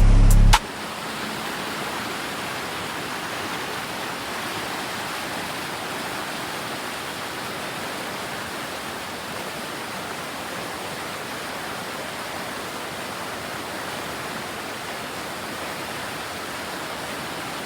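Music cuts off about half a second in, leaving a steady, unbroken rush of falling water, like a waterfall.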